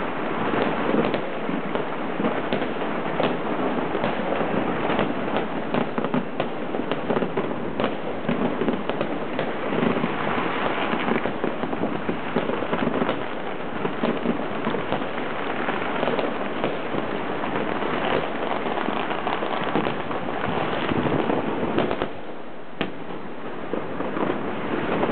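Fireworks and firecrackers set off all over a city at once: a continuous din of countless overlapping bangs and crackles, with sharper single reports scattered through. It eases briefly near the end.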